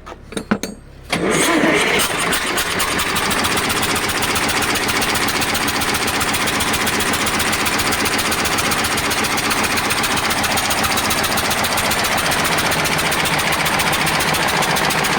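KAMAZ V8 diesel engine cranking with a few short strokes, then catching about a second in and running steadily with a dense, even beat. It is being run with an injector removed, to find the cylinder pushing combustion gases into the cooling system, which the mechanics suspect is a cracked head or cylinder liner.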